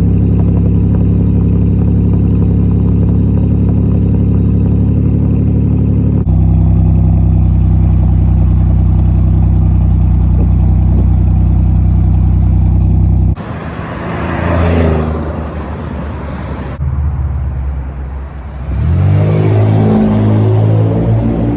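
Buick 3800 V6 exhaust with the stock muffler cut out and replaced by a Cherry Bomb glasspack, running steadily through two spliced clips. A third of the way from the end the engine revs up with a rising pitch, and about a second after a further cut it accelerates again, rising in pitch, near the end.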